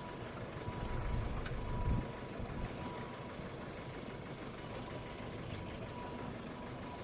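Sailboat's engine running steadily under wind noise, with a faint steady high-pitched tone that stops shortly before the end.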